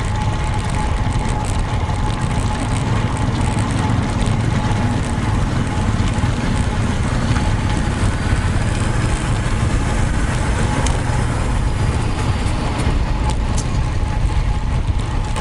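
Steady wind rush and road noise from a road bike being ridden, heaviest at the low end, with a faint steady whine over it.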